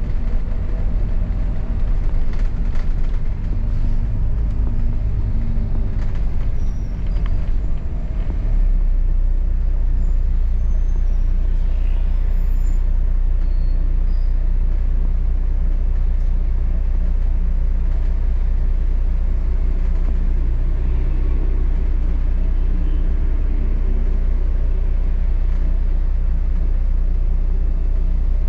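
Steady low rumble of a London double-decker bus running, heard from on board, with a few light rattles and faint high squeaks in the first several seconds.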